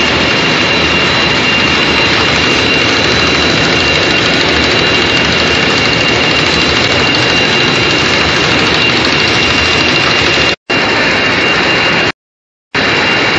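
Machinery of a twin-screw snack extrusion line running with a loud, steady roar carrying two high, steady whines. The sound cuts out twice, very briefly and then for about half a second, near the end.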